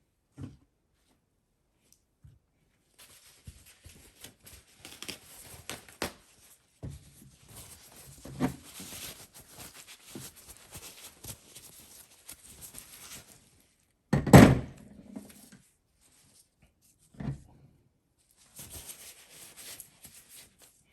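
Starter parts and tools being handled on a workbench: scattered clicks and rustling, with one loud thunk about two-thirds of the way in and a smaller knock a few seconds later.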